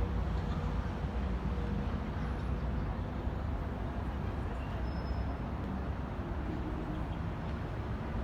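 Steady city street ambience: a constant low rumble of traffic with no distinct events.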